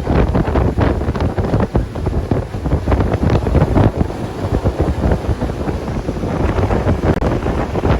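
Wind buffeting the microphone on a moving motorboat: a loud, gusty rumble with constant short blasts, covering any engine or water sound.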